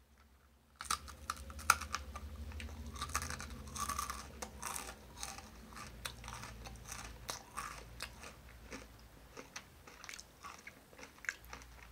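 A person biting into and chewing a crunchy toasted cheese bar (jalapeño cheddar), heard up close: a bite about a second in, then dense crackly crunching that gradually thins out as the chewing goes on.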